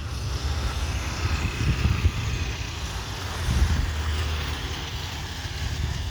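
Airbus A320neo jet engines heard on approach: a steady rush with a faint whine, over low rumbling wind buffeting on the microphone.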